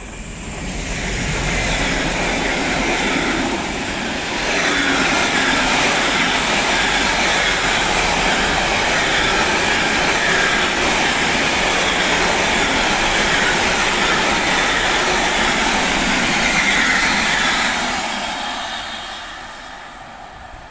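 A train passing by: the sound builds over the first couple of seconds, dips briefly about four seconds in, then holds as a steady, loud rush of wheels on rails before fading away near the end.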